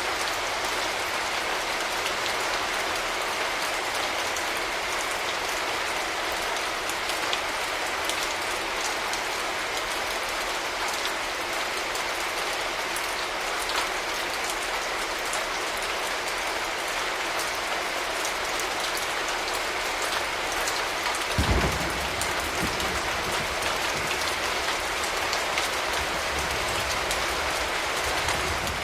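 Steady rain falling, an even hiss with scattered drop ticks. About two-thirds of the way through comes a sudden low rumble of thunder, the loudest moment, fading over a second or two, with a fainter rumble near the end.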